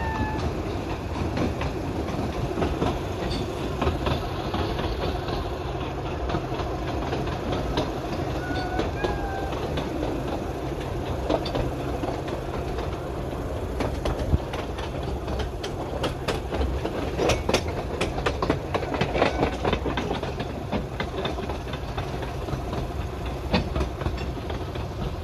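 Narrow-gauge railway train running along the track: a steady rumble with a clatter of wheel clicks over the rail joints that gets busier in the second half.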